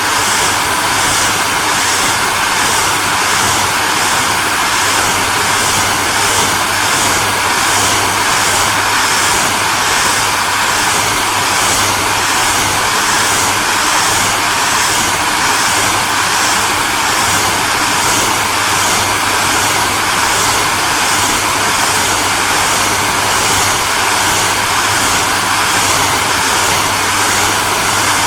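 Hair dryer running steadily: a constant rush of air with a low motor hum underneath and a faint regular flutter in the high hiss, about twice a second.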